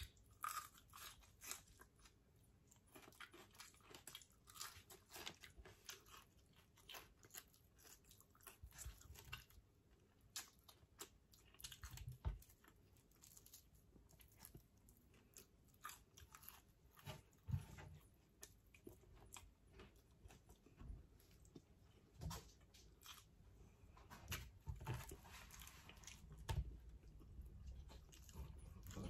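Quiet, close chewing and crunching of a person eating fried pompano and rice by hand, with many small, irregular clicks of mouth sounds.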